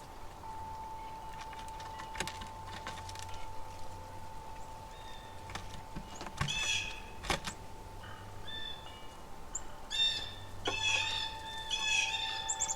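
Songbirds chirping in short repeated notes, starting about five seconds in and busiest near the end, with a few sharp clicks and a thin steady tone underneath.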